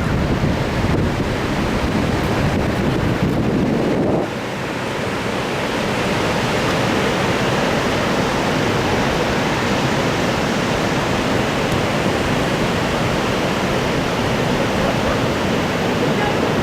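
Ocean surf washing on a beach, with wind buffeting the microphone. About four seconds in, the low wind rumble drops away and a steady hiss of surf remains.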